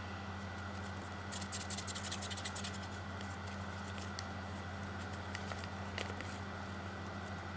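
Folded paper of an origami flapping bird rustling and crackling as its tail is pulled to work the wings, with a quick run of papery ticks for about a second and a half, then a few single ticks. A steady electrical hum sits underneath.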